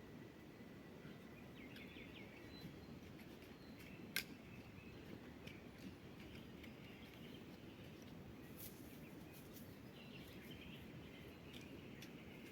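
Faint bird chirps over quiet, low background noise, with one sharp click about four seconds in.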